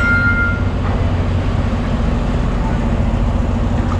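Semi-truck diesel engine running with a steady low hum. A thin high tone fades out within the first second.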